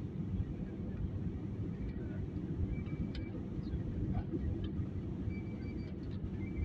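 Steady low vehicle rumble, with a few faint short high tones about three seconds in and again near the end.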